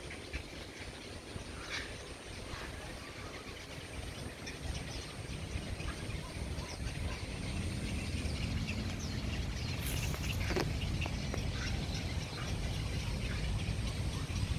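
Outdoor ambience: a low rumble that grows louder about halfway through, with scattered short bird chirps over it.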